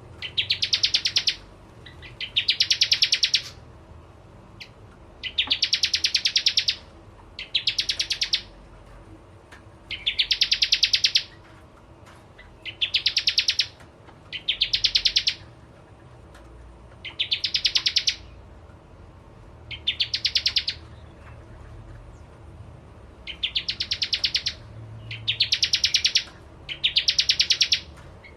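Bar-winged prinia (prenjak jawa) singing in full voice: a string of rapid, rattling trilled phrases about a second long each, repeated every one to two seconds.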